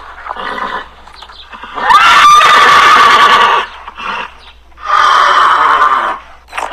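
Horse neighing: a loud whinny about two seconds in that rises in pitch and then holds, and a second loud call about five seconds in, with quieter horse sounds before them.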